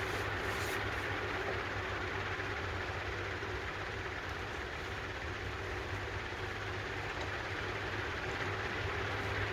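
Honda HRX217 lawn mower's GCV190 engine running steadily after its carburetor cleaning.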